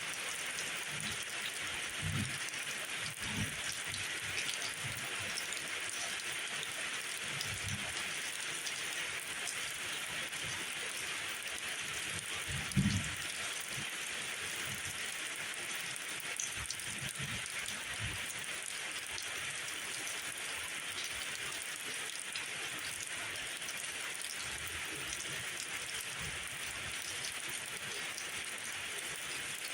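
Steady rain falling, a continuous hiss of drops, with occasional low thuds scattered through it, the loudest about thirteen seconds in.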